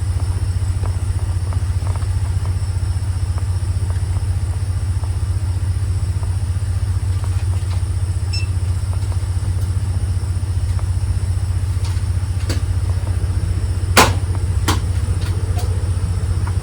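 Semi truck's diesel engine idling with a steady low hum. Near the end, two sharp clicks come less than a second apart.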